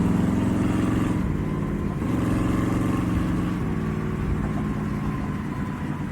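A car engine running, its note shifting slightly a few times; the engine is plausibly that of a 1973 Ford Mustang coupe, which the voice-over says starts right up and runs well.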